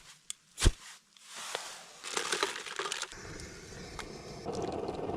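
A sharp click, a short stretch of hissing and crunching, then from about three seconds in a camp stove burner lit and burning with a steady rushing rumble.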